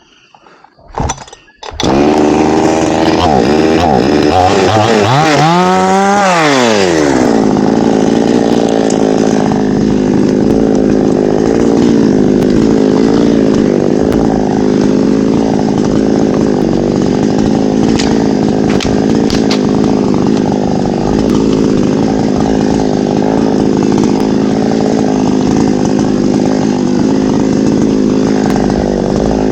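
Two-stroke chainsaw working on a teak tree: it comes in about two seconds in, revs up and down a few times, then climbs to full throttle around six seconds in and holds there steadily, as when the chain is cutting through wood.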